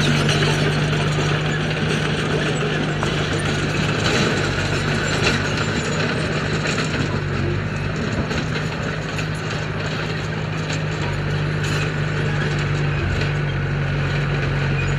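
A heavy diesel earthmoving machine running at a steady pitch. Irregular metallic clicks and rattles sound over the engine throughout.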